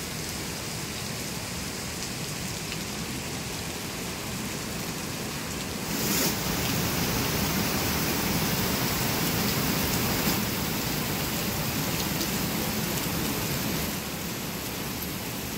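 Heavy monsoon rain falling steadily, a dense even hiss. It gets louder about six seconds in and eases a little near the end.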